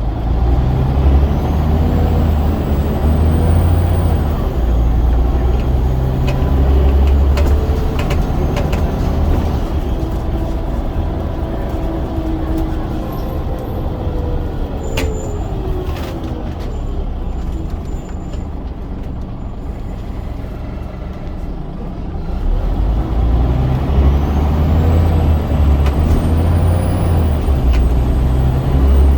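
Scania DC9 9.0-litre diesel of a double-decker bus with a ZF Ecomat automatic gearbox, heard on board pulling under load. Around the middle it eases off, with a whine gliding down and a few short sharp clicks, then it pulls hard again near the end.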